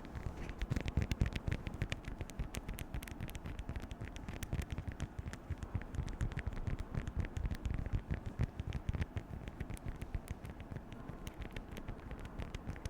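Beeswax food wrap being crinkled and handled close to the microphone: a dense, irregular crackling of many small sharp crinkles, over a low rumble from the handling.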